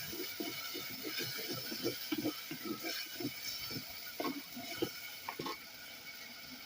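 A spatula scraping and knocking against a pan as a spice paste of onion, garlic and ginger is stirred and fried, with a light sizzle underneath. The scrapes come irregularly, a few a second, and thin out near the end.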